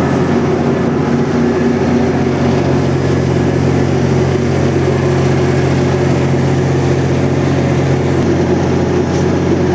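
GO Transit MP40PH diesel-electric locomotive running steadily while standing at the platform: a constant, loud low hum with several steady tones.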